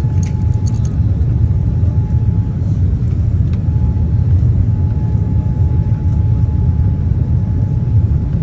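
Steady low rumble of a moving vehicle heard from inside its cabin, with a faint constant whine above it and a few light clicks about half a second in.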